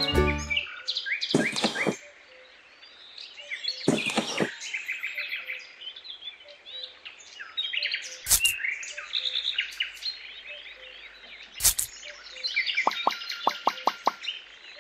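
Birds chirping and singing throughout. Over them come several sharp taps and knocks, and near the end a quick run of about six ticks, as small plastic plants are handled and pressed into sand.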